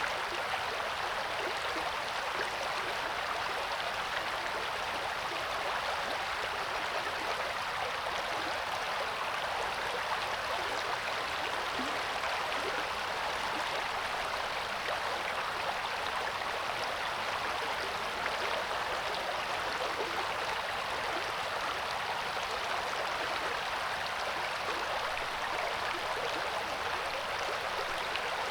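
Coeur d'Alene River flowing, a steady rush and babble of running water.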